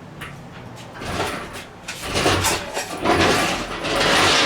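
Rolling and scraping of shop jack equipment with metal knocks as a pulled engine is lifted off the floor, starting about a second in and growing louder.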